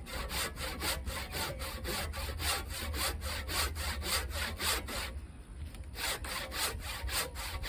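Husky 20-inch fine-tooth hand saw cutting through a dry, seasoned tree trunk in quick, even back-and-forth strokes, about four a second, with a pause of about a second around five seconds in.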